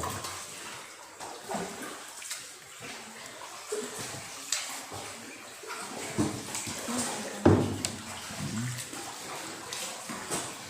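Boat paddle dipping and splashing in the water inside a cave, in irregular strokes a second or two apart.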